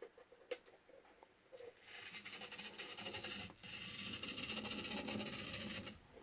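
A few faint clicks, then an HO scale model locomotive running along the track, its small electric motor and gears making a steady, fast-fluttering whir. The whir breaks off for a moment midway and then resumes.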